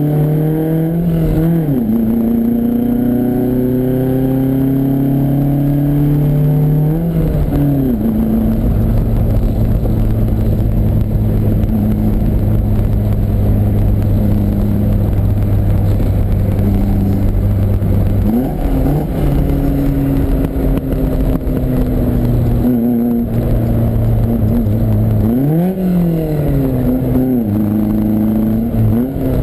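Lancia Fulvia's V4 engine heard from inside the car under hard driving. It revs up and drops back at each gear change and lift, about four times, and holds a steadier pitch in the middle.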